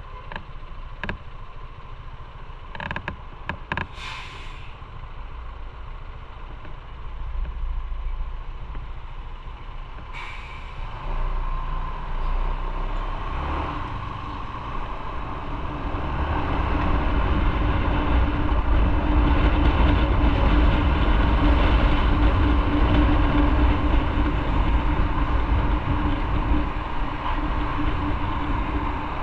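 Motorcycle on a road: a quieter stretch with a few clicks and a short hiss about four seconds in, then the engine and wind noise build from about ten seconds in and run loud and steady as the bike gets under way.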